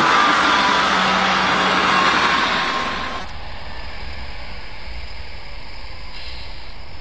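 A diesel multiple-unit train passing close by: a loud rumble of wheels on rails with engine noise and a steady whine. About three seconds in, the sound cuts to a quieter, steady low diesel hum of another multiple unit running on a farther track.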